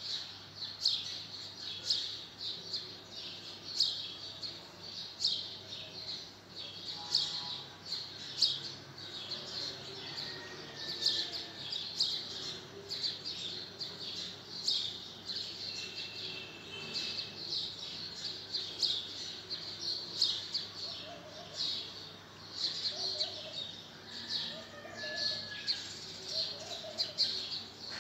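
Small birds chirping over and over, about two high chirps a second, with short lower calls joining in the second half.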